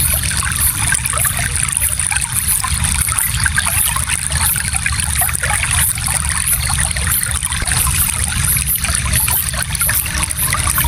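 Shallow stream flowing steadily, water trickling and splashing over stones with a low rumble underneath.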